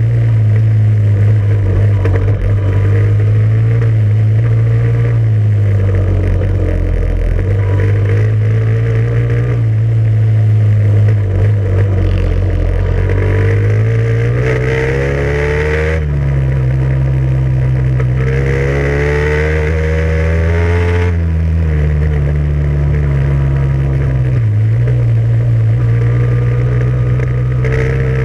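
Motorcycle or quad engine running steadily. About halfway through it revs up twice, the pitch climbing over a few seconds and then dropping back suddenly each time.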